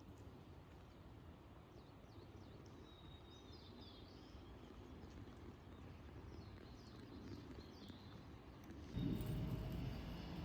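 Small birds chirping in short, quick falling notes over faint outdoor background noise. About nine seconds in, a louder low noise starts suddenly.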